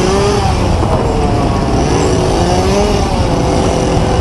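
Road traffic noise heard while riding through the city, with heavy wind rumble on the microphone, steady throughout.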